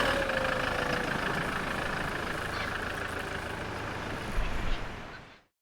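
A 4WD vehicle's engine running steadily, with a couple of knocks about four seconds in, before the sound fades away to silence just after five seconds.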